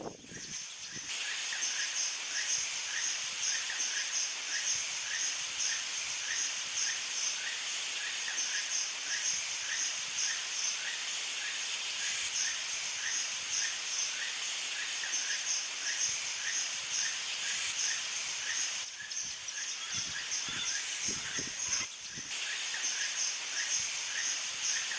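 Tropical rainforest chorus: a steady high, hissing insect buzz with short chirps repeating about twice a second. The texture changes abruptly a few times.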